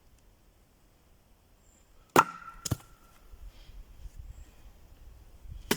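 Axe chopping wood to split kindling: three sharp strikes, two in quick succession about two seconds in, the first with a brief ring, then another near the end.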